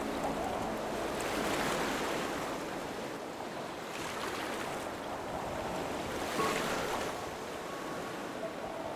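Ocean surf: waves washing in, with the noise swelling twice, about a second in and again about six and a half seconds in.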